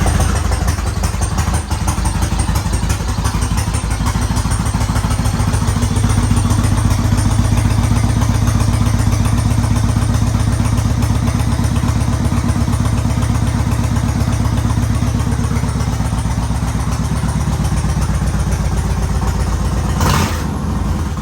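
2013 Yamaha Raider's 1854 cc air-cooled V-twin idling steadily just after a cold start, freshly serviced with new oil, air filter and spark plugs, and running smoothly. A brief burst of noise comes near the end.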